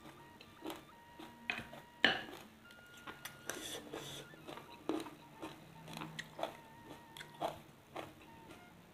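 A person chewing and crunching food with the mouth close to the microphone: a run of short, crisp crunches, the loudest about two seconds in.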